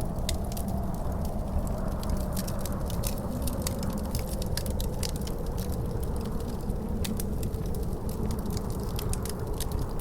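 Wood fire crackling with frequent, irregular sharp pops, over a steady low rumble of wind with a faint howl that slowly wavers in pitch.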